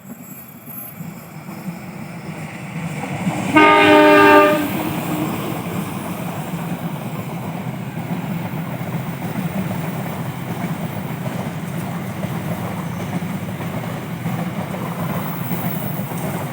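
A train approaching and passing: its diesel locomotive sounds its horn once, about a second long, a few seconds in. After the horn the locomotive's engine and the train run past with a steady loud rumble.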